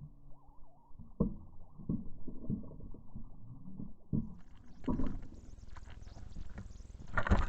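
Faint, irregular soft thumps and rustling: handling noise on a gun-mounted camera.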